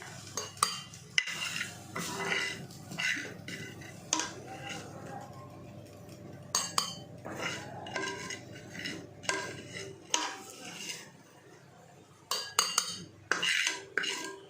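A metal spoon scraping and clinking against a pan in irregular strokes while scooping the last of the fried chicken out into a bowl. A low steady hum runs underneath and stops about ten seconds in.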